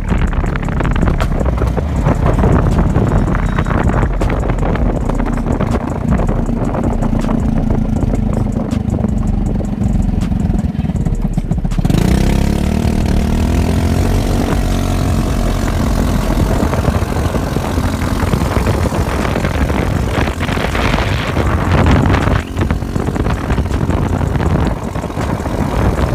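Honda motorcycle engine running without a muffler, its pitch rising and falling with the throttle. About halfway through the note changes suddenly and climbs as it revs.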